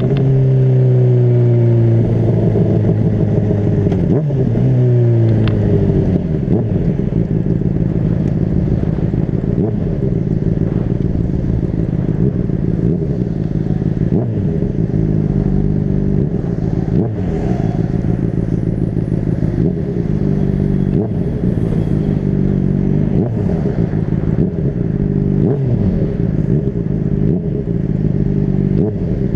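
Honda CBR600RR's inline-four engine running under way, its pitch sliding down and climbing again again and again with throttle and gear changes, over a heavy low wind rumble on the microphone.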